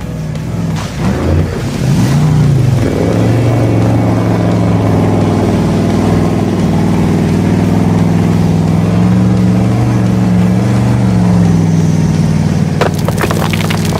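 Vehicle engine running, revving up over the first few seconds and then holding with a gently wavering pitch; a quick burst of rattling clicks near the end.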